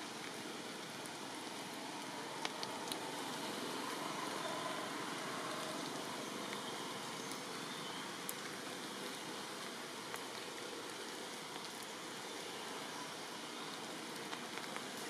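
Steady rain falling, an even hiss with a few sharp ticks of single drops landing scattered through it.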